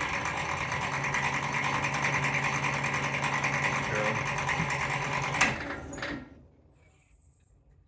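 2020 Tracker EVi electric vehicle driven forward under power, with a steady motor hum and a rapid, dense clicking from the front end: the clicking fault the owner is showing. It stops with a sharp click about five and a half seconds in and dies away.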